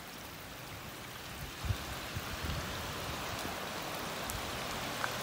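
Steady rain falling onto a flooded street, an even hiss of drops hitting standing water, with a few low thumps about two seconds in.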